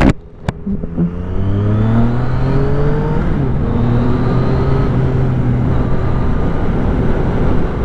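Yamaha FZ-09 motorcycle's 847 cc inline three-cylinder engine pulling away and rising in pitch, then running steadily at cruising speed. There is a sharp click about half a second in.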